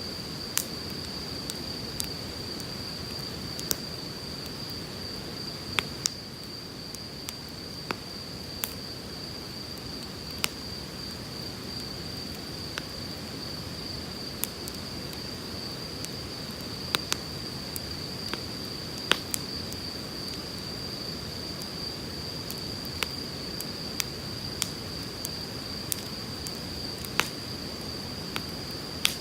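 Wood campfire crackling, with sharp pops scattered every second or two, over the steady rush of a flowing river. A steady high-pitched tone sits above it.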